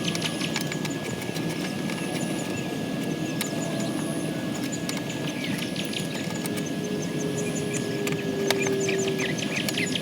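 Birds chirping repeatedly over a steady low outdoor rumble, with a couple of sharp knocks.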